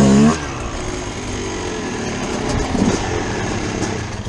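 Dirt bike engines running in the drive-through lane: a short, loud throttle blip right at the start, then steady running with another small blip about three seconds in.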